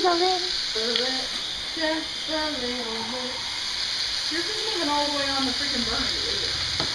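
Diced zucchini frying in a pan, a steady sizzle. A person's voice comes and goes over it in several short, wavering phrases.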